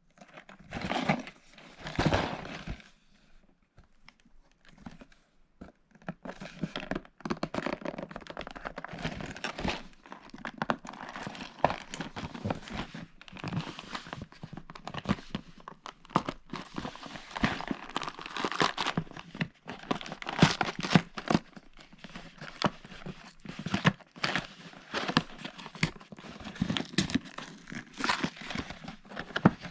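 Thin plastic Lego parts bags being torn open and handled: dense crinkling of the plastic with many small clicks, starting with two short rustles and running continuously from about six seconds in.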